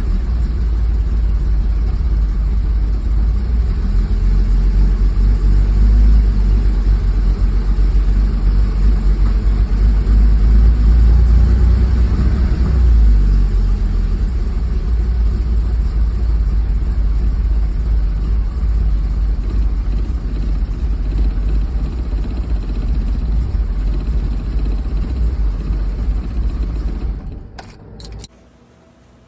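Porsche 911SC's air-cooled flat-six running roughly, its level rising and falling, on an engine with vacuum leaks. About 27 seconds in it stops, with a short last blip a second later.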